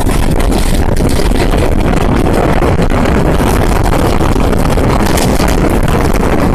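Passenger train running at speed, heard from on board: a loud, steady rush of wheels on the rails mixed with wind on the microphone.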